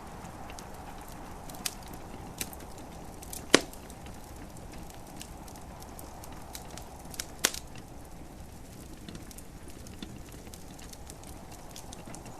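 Wood fire in a fireplace crackling, with a few sharp pops now and then, the loudest about three and a half seconds in and another pair about seven seconds in. Behind it runs a steady soft hiss of gentle rain.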